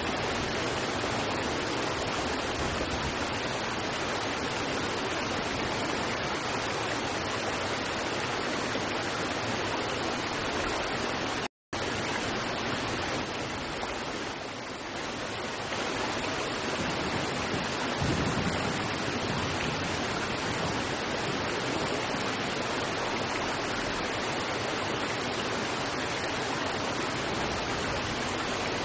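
River water rushing steadily over rocks, an even, continuous wash, cut off by a split-second dropout about a third of the way through.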